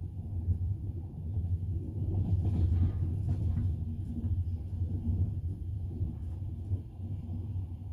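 Double-decker passenger train running, heard from inside the carriage: a steady low rumble of wheels on rails, swelling a little about two to three seconds in with a few faint knocks of the wheels.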